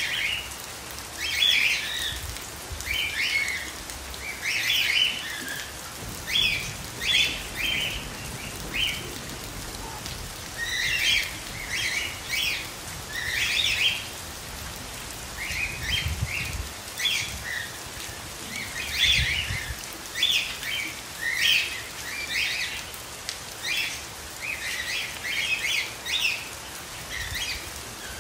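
Steady rain falling, with clusters of short, high bird chirps every second or two.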